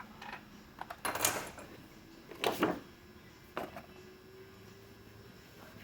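Three short rustling, knocking noises a second or so apart over quiet room tone.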